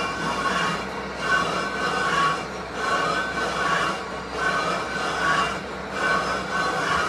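Metalworking machine running in a repeating cycle: a metallic squeal with a low hum under it, rising and falling about every second and a half.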